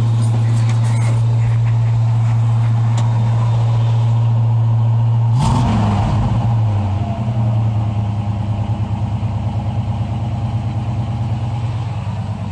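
Chevy 350 small-block V8 in a 1978 Chevy 1-ton truck idling steadily. About five and a half seconds in, the throttle is briefly blipped, and the engine then settles to a slightly lower, pulsing idle.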